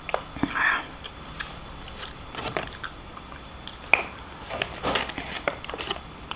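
A person chewing a mouthful of fried rice and fried noodles close to the microphone, with irregular mouth smacks and clicks.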